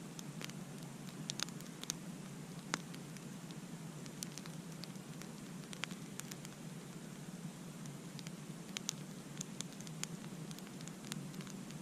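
Campfire crackling: irregular sharp pops and snaps over a steady low hiss, with one louder pop a little under three seconds in.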